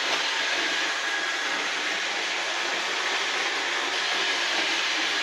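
iRobot Roomba 770 robotic vacuum cleaner running, a steady, even hiss from its vacuum motor and brushes.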